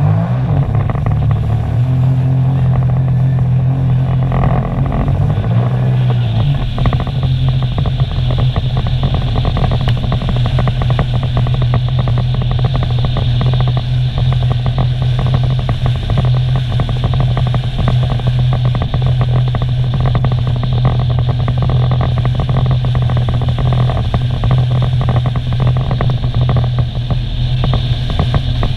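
Sea-Doo jet ski engine running steadily and loudly under way, with a strong low drone. About six seconds in the sound shifts and a higher hiss joins in and stays.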